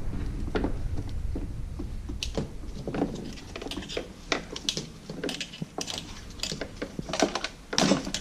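Scattered small clicks, taps and rattles of hands handling a leaf blower's plastic parts, hose and wiring during repair work, over a low rumble that fades in the first couple of seconds.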